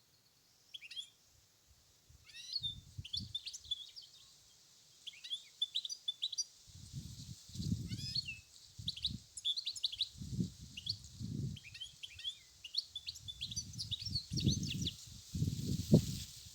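European goldfinch singing a quick, twittering run of chirps and trills in short phrases. Irregular low rumbles of wind on the microphone come and go underneath and grow louder toward the end.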